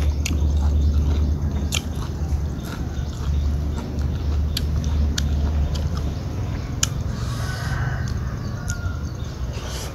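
A person chewing a mouthful of papaya salad and noodles, wet and close up, with a few sharp mouth clicks scattered through it over a steady low rumble.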